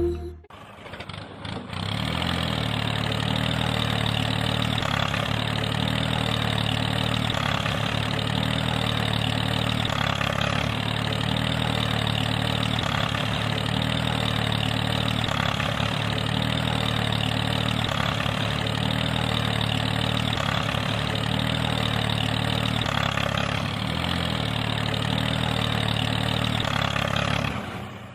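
A motor starts up and runs steadily for about twenty-five seconds with a low, even hum, then cuts off near the end.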